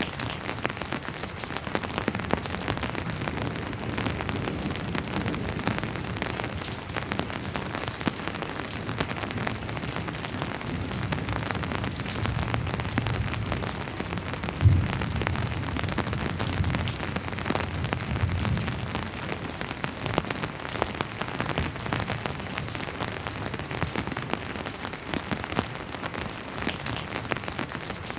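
Steady rain falling, with many distinct drop ticks over an even hiss. Around the middle, a low rumble of distant thunder builds, with one sharp low thud about halfway through.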